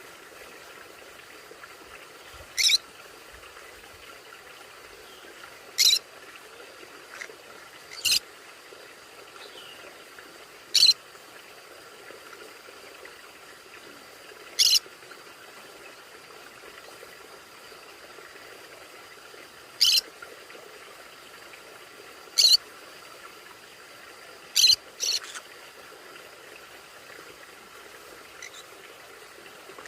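A conure giving short, sharp, high-pitched calls, one every few seconds, with two in quick succession near the end, over a faint steady hiss.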